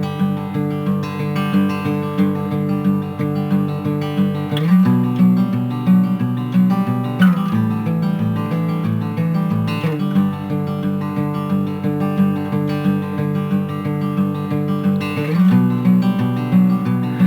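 Acoustic guitar music, chords strummed steadily and changing every second or two.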